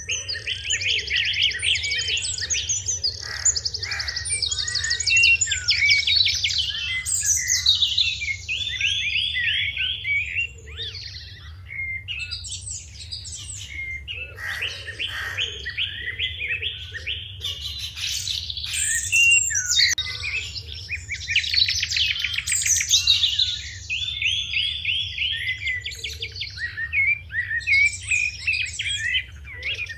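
A flock of sparrows chirping continuously in a dense, overlapping chorus of rapid, high chirps, with brief lulls. A few lower calls come in now and then.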